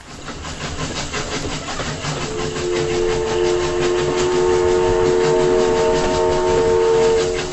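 Steam locomotive running, its whistle blowing one long chord of several notes at once, starting about two seconds in and ending near the end.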